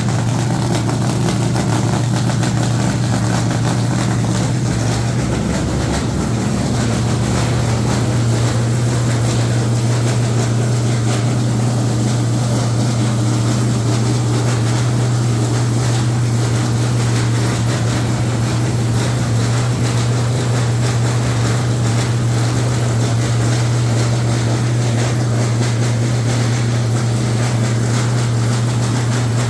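An engine running steadily at idle, a loud, even low drone with no revving.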